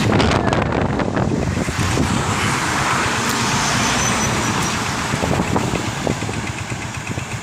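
Road noise from a moving vehicle among trucks on a highway: a steady engine rumble with tyre and wind noise, easing off slightly near the end.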